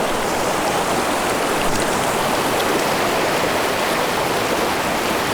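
Rushing water of a mountain stream: a steady, even wash of noise.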